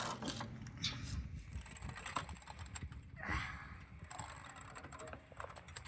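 Floor jack being pumped by hand to lift a truck, its handle and lifting mechanism clicking and creaking irregularly as it takes the vehicle's weight.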